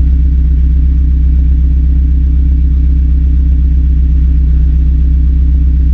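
Mazda Miata NB's four-cylinder engine idling steadily through its ISR exhaust, loud with a deep, even drone. The exhaust is freshly repaired, its hole welded shut, so all of the exhaust now leaves through the tailpipe.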